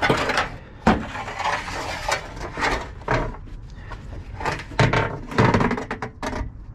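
Scrap metal and construction debris being shifted and dropped by hand in a dumpster: a run of knocks, clatters and scrapes, loudest at the start, about a second in, and around five seconds in.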